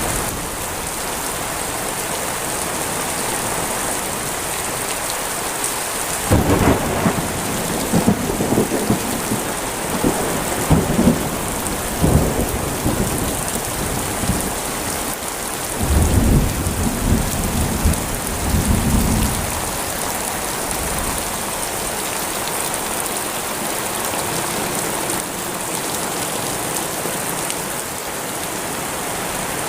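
Heavy rain falling steadily, with thunder rumbling through it twice: a crackling roll starting about a fifth of the way in, then a deeper, heavier roll a few seconds later.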